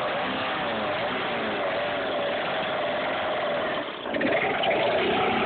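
Peugeot 106 XS TU engine fitted with four Weber carburettors, running steadily. About four seconds in it briefly drops, then comes back louder. The loud sound comes from the engine and its carburettors, not from the stock exhaust.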